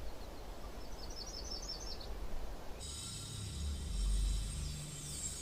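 Quiet background ambience with a small bird giving a quick run of about a dozen chirps in the first two seconds. About three seconds in the background changes to a steady high hum, with a low swell near four seconds.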